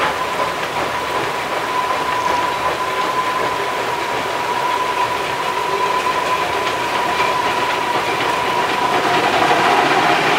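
Narrow-gauge train rolling across a steel girder bridge, its wheels clicking over the rail joints, with a steady high-pitched tone over the rolling noise. The sound grows a little louder near the end.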